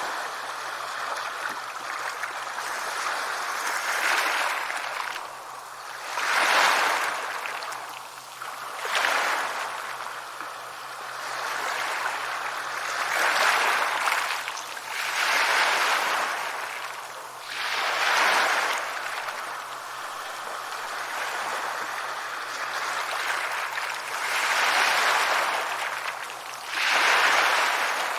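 Sea waves washing onto a beach: a steady hiss of surf that swells and falls back about every two to four seconds.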